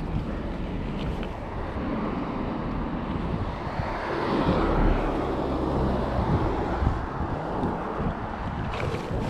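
Wind buffeting the microphone and rolling noise while a BMX bike is ridden, swelling louder around the middle.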